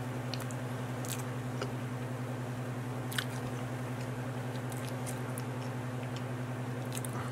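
Quiet mouth sounds of someone chewing, a few small clicks and smacks, over a steady low hum.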